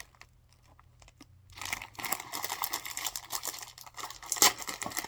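Snack wrapper crinkling as it is handled, starting about a second and a half in, with one louder crackle near the end.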